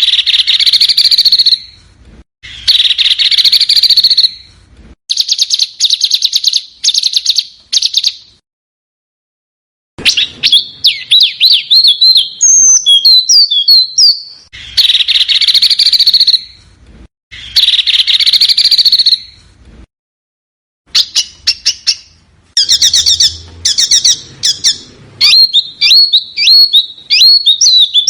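Recorded small songbird song in short repeated phrases. Hissy buzzes alternate with fast ticking trills and quick high whistled notes that glide up and down. Twice the song stops dead in a brief silence, as at a splice in the recording.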